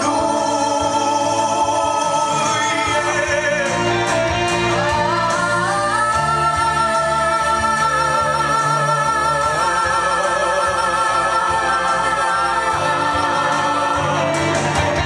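Song performance: singing with vibrato over an instrumental backing, with a long held vocal note through the middle.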